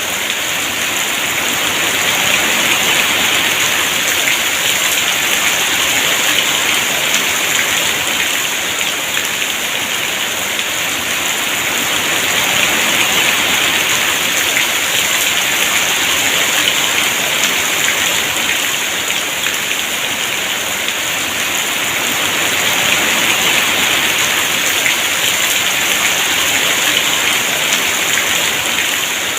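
Heavy rain falling steadily in a dense, even hiss, swelling and easing slightly every several seconds.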